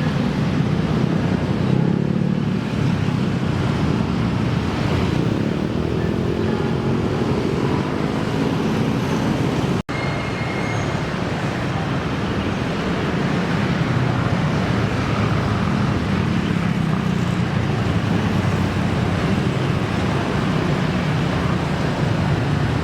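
Heavy engine running steadily with a low rumble, with a brief drop-out about ten seconds in.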